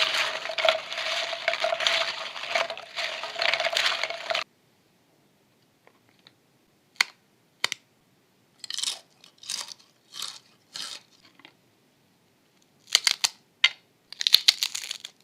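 About four seconds of dense, continuous crackling, then thin, crisp fried potato snacks being bitten and crunched: two sharp bites, then runs of crunching chews with pauses between them.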